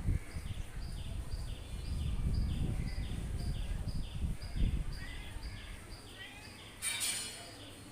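A small bird calling the same short chirp over and over, about twice a second, over a low rumble that fades away over the first few seconds. A brief harsh rasping burst comes near the end.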